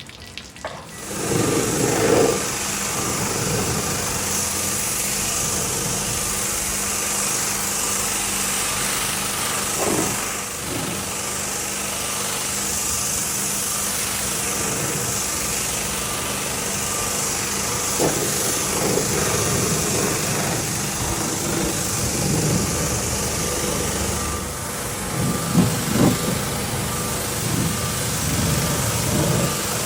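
A motor-driven machine starts about a second in and then runs steadily, a constant low hum under a high hiss, with a few brief louder bursts.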